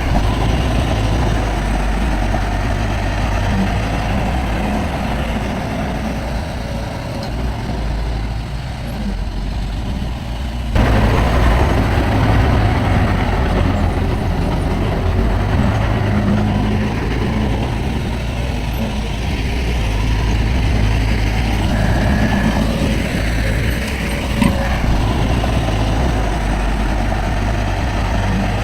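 Heavy diesel engine of earthmoving machinery running steadily, deep and loud, with a few brief knocks. It gets suddenly louder about eleven seconds in.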